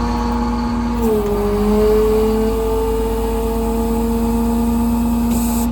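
Ford F750's Caterpillar C7 diesel engine running steadily with a droning tone that dips slightly in pitch about a second in, then holds.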